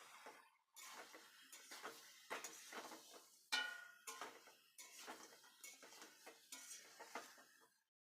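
Metal spoon clinking and scraping against a cooking pot in quick, irregular strokes, with one louder ringing clang about three and a half seconds in.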